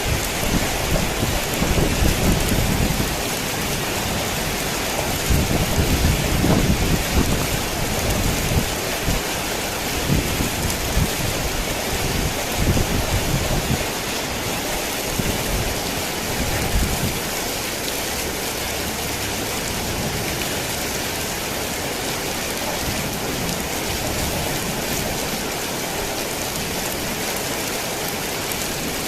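Heavy rain falling steadily on a tin roof, with thunder rumbling low through the first half, loudest about two and six seconds in, then dying away.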